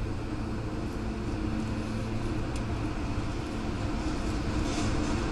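Steady low roaring rumble of a nearby tornado's wind, with a steady hum underneath, swelling slightly toward the end.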